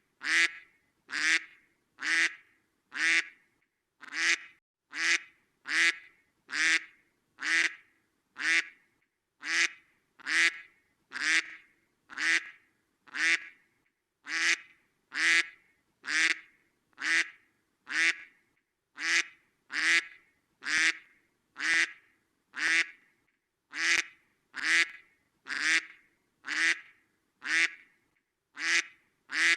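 Duck quacking: single short quacks repeated at an even pace, about one a second, each call alike.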